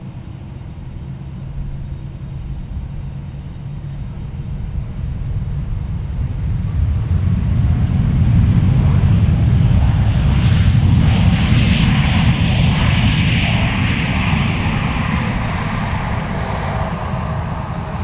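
A jet airliner passes close by with its engines running. The deep rumble and hiss build up, peak around the middle, then fade away.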